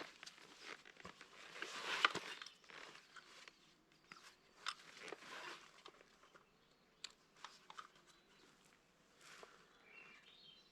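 Irregular crunching and rustling on forest ground, the loudest about two seconds in, with a few sharp clicks later.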